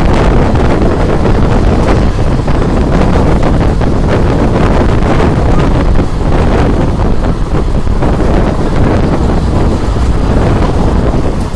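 Wind rushing over the microphone with the steady rumble of a moving passenger train.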